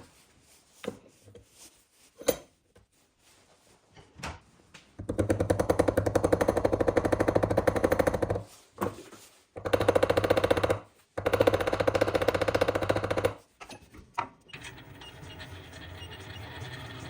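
A power tool with a rapid hammering beat runs in three bursts, the first about three seconds long. A few light handling clicks come before it.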